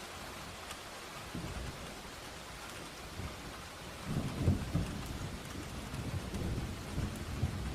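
Steady rain with a roll of thunder that builds about four seconds in and rumbles on.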